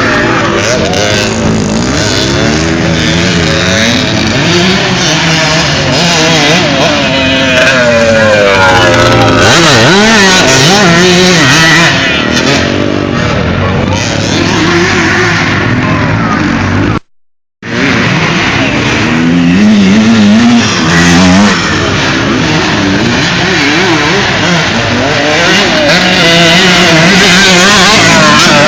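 Several vintage motocross bikes racing, their engines revving up and down as they come past. The mix of changing engine pitches shows more than one bike. The sound cuts out completely for about half a second a little past the middle.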